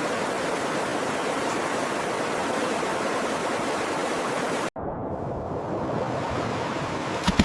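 Steady rushing of flowing water, an even noise with no distinct events. About two-thirds of the way through it cuts off abruptly and gives way to a duller, muffled rush, with a single sharp knock near the end.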